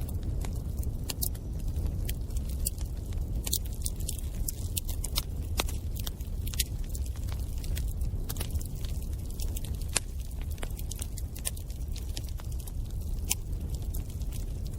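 Bonfire burning: a steady low noise of the flames with frequent, irregular sharp crackles and pops from the burning wood.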